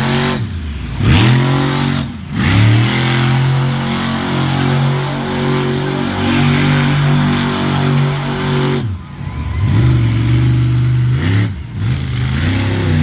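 Monster truck engine revving hard, held at high revs. The revs drop away and climb back up four times as the throttle is lifted and floored again.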